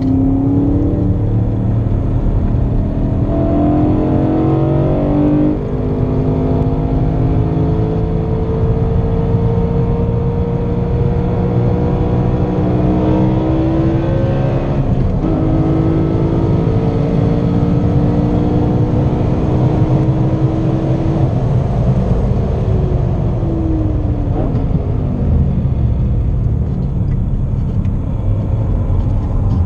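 Car engine heard from inside the cabin at circuit speed, rising in pitch under acceleration with gear changes at about five and about fifteen seconds in. The pitch falls as the car slows past the twenty-second mark, over constant road and wind rumble.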